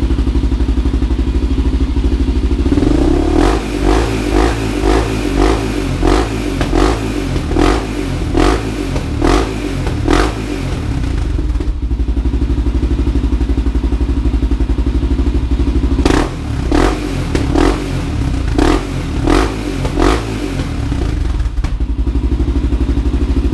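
1999 Honda 400EX's single-cylinder four-stroke engine through an FMF Q4 slip-on muffler with the spark arrestor removed, idling, then revved in a run of quick throttle blips, back to idle, then a second run of blips before settling to idle again. Loud and open-sounding exhaust.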